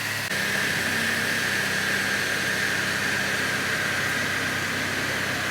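Steady mechanical running noise with a constant high whine over it.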